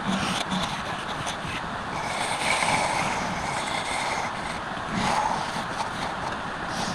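Wood lathe running with a turning tool cutting into the spinning wood: a steady, rough scraping hiss that grows a little brighter for a couple of seconds in the middle.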